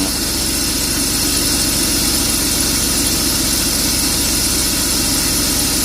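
BMW E39 engine idling steadily with its alternator belt whistling.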